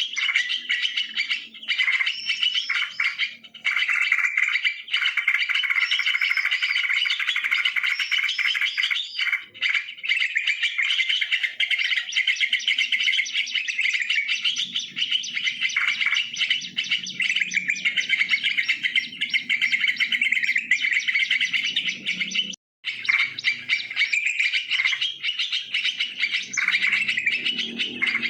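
Yellow-vented bulbuls (trucukan) chattering continuously, many bubbling calls overlapping, as used for a bird-lure recording. A low hum runs underneath in the second half, and the sound cuts out completely for a moment about 23 seconds in.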